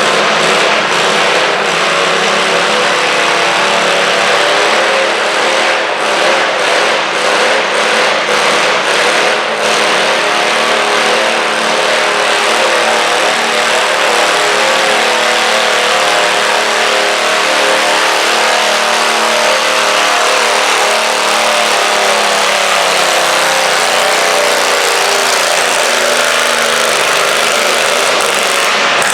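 Stock garden tractor engine running hard at high, fairly steady revs while pulling a weighted stoneboat, its pitch sagging somewhat in the last few seconds as it bogs under the load.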